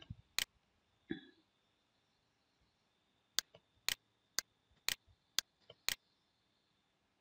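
Computer mouse button clicks: one just after the start, then a run of six about half a second apart. A short throat sound comes about a second in, and a faint steady high-pitched whine runs underneath.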